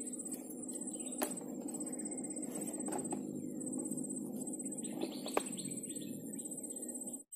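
Outdoor marsh ambience with a bird chirping a short run of notes about five seconds in, over a steady low rumble and a faint high pulsing whine. A few sharp clicks sound along the way, and the sound cuts off abruptly just before the end.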